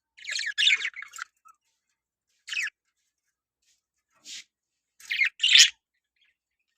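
Budgerigars chirping and chattering in short, scratchy bursts: a quick run of calls at the start, single calls about two and a half and four seconds in, and a louder pair of calls near the end.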